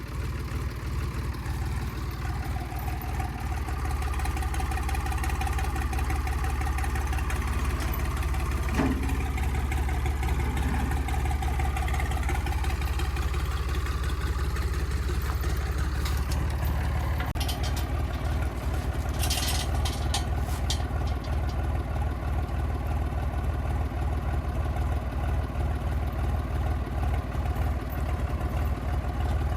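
An engine idling steadily, with a brief knock about nine seconds in and a few sharp clicks a little past halfway.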